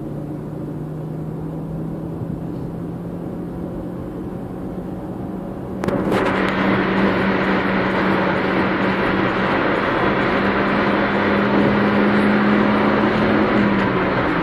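Honda Civic 1.6 i-VTEC four-cylinder engine heard from inside the cabin, revving hard under full acceleration towards 6,000 rpm with its note slowly rising in pitch. About six seconds in, it turns abruptly louder and harsher. The steady engine note drops away just before the end.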